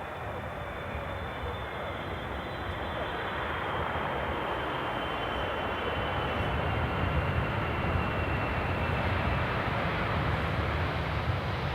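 Jet airliner engines: a steady rush with a faint high whine that slides slowly down in pitch, growing gradually louder, with a deeper rumble building in the second half as the aircraft comes closer.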